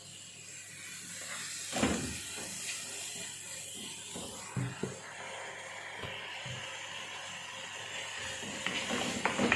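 Kitchen handling sounds: a few light knocks and clatters over a steady hiss.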